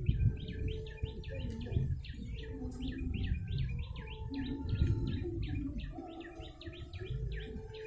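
Prenjak lumut, a small Indonesian songbird, calling as a lure: a rapid, unbroken series of sharp downward-sweeping chirps, several a second, over a low rumble.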